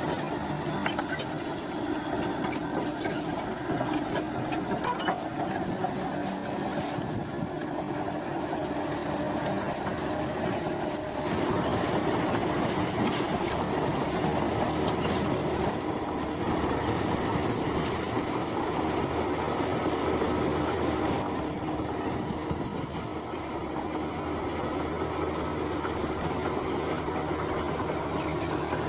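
Heavy diesel earthmoving machinery running steadily, a constant engine hum with a thin high-pitched whine over it, growing louder about eleven seconds in.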